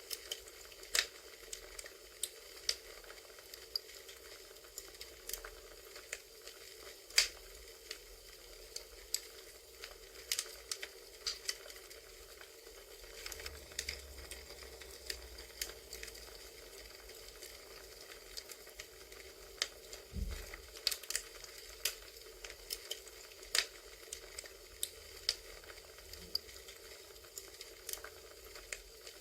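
Wood fire crackling, with sharp irregular pops over a steady low hiss.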